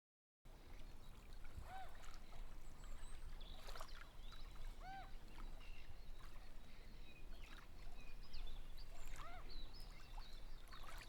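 Outdoor ambience of birds chirping and calling over a low rumble of wind. A few louder arching calls come three times, and the sound starts suddenly about half a second in and cuts off abruptly at the end.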